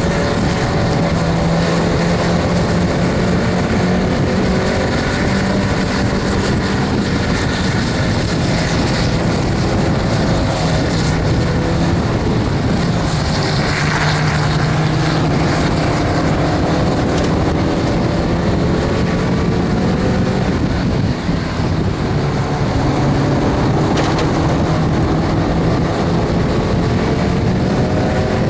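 Stock first-generation Mazda MX-5 Miata's four-cylinder engine heard from inside the cabin, running hard at race pace, its pitch repeatedly climbing and dropping back as the car accelerates and slows for corners.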